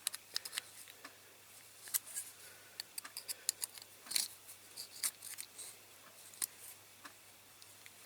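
Pliers clicking and scraping against the thin tinplate top part of a diecast model as it is bent straight: scattered light metallic clicks at irregular intervals.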